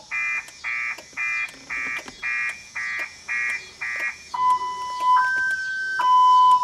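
A 2000 Chevrolet Impala's car alarm siren going off, stepping through its tones: about eight harsh beeps at roughly two a second, then from about four seconds in a two-tone high-low wail alternating between two pitches. This is the alarm that keeps going off on its own on this car.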